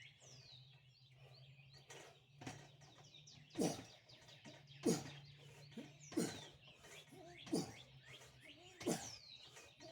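A man's sharp exhalations in a steady rhythm, one about every 1.3 seconds, a breath with each pull-up rep, starting about two and a half seconds in. Birds chirp in the background over a steady low hum.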